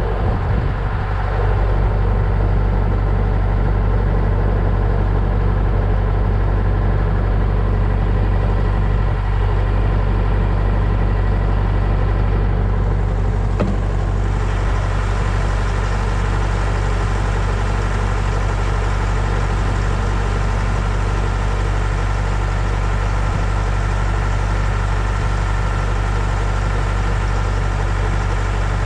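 Engine idling steadily with a deep, even hum; a hiss in the background grows a little louder about 13 seconds in.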